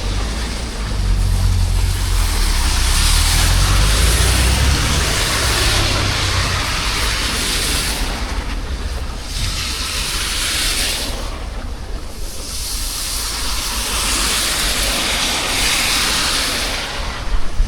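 Street traffic on wet asphalt: tyres hiss as vehicles pass, swelling and fading several times, over a steady hiss of rain. A heavy low rumble from a passing vehicle fills the first few seconds.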